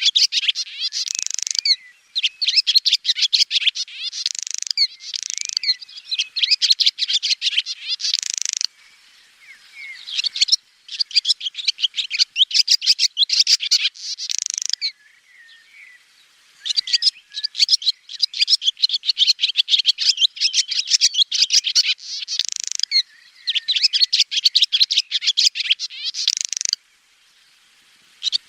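Swallows twittering: fast runs of high chirps and trills, each run lasting a few seconds, with short pauses between them.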